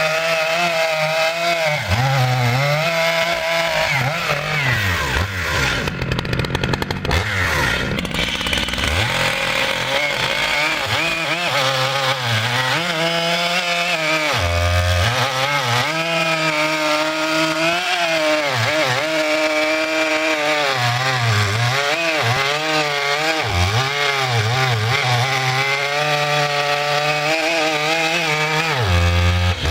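Two-stroke chainsaw running hard through logs, its engine pitch wavering as the chain bogs and frees in the cut. About six seconds in the revs drop sharply, then climb back.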